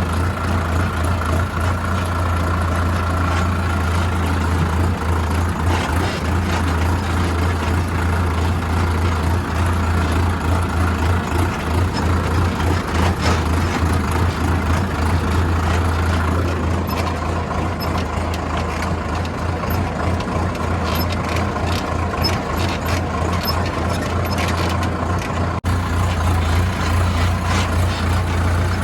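Sonalika DI 750 Sikander tractor's diesel engine running steadily with a deep, even hum.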